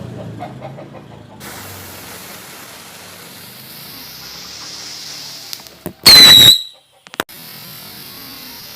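Small firework hissing, then one short, very loud whistle about six seconds in, falling slightly in pitch, followed by a few sharp clicks.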